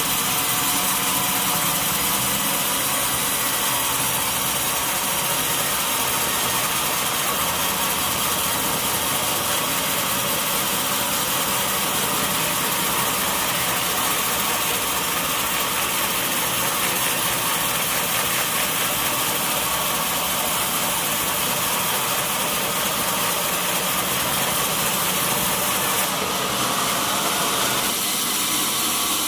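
Sawmill machinery running steadily, a loud, even mechanical noise with no pauses, its tone shifting slightly near the end.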